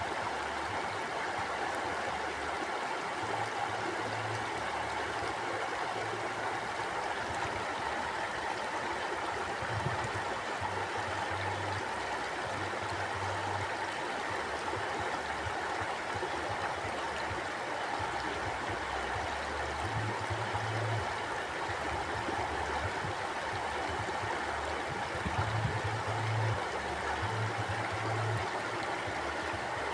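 Flowing river rushing steadily, with a low rumble that swells and fades every few seconds beneath the water.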